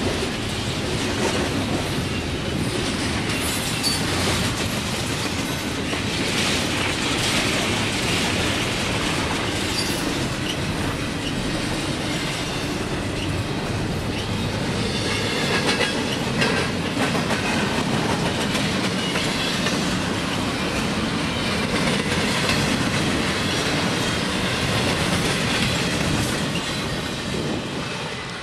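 Double-stack container freight train rolling past, its well cars and steel wheels rattling steadily over the rails, the sound falling away near the end as the last cars go by.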